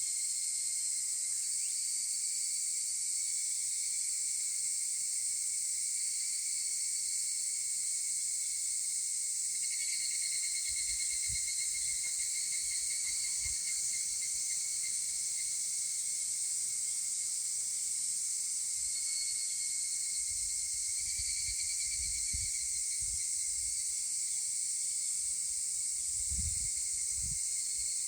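Higurashi (evening cicadas) calling in chorus, a steady high ringing, with nearby calls swelling into fast pulsing trills about ten seconds in and again past twenty seconds. A few low rumbles sit under it in the second half.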